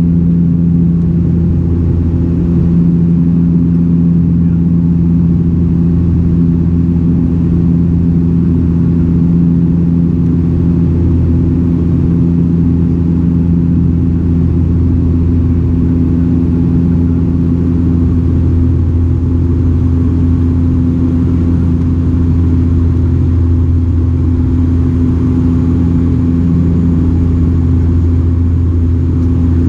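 Cabin noise of a Dash 8-402 (Q400) in flight: the steady drone of its Pratt & Whitney PW150A turboprops and six-blade propellers, heard as several held low hum tones over a rushing background.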